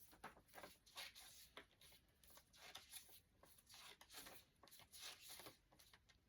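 Faint, irregular rustling and light clicks of CDs and their packaging being handled.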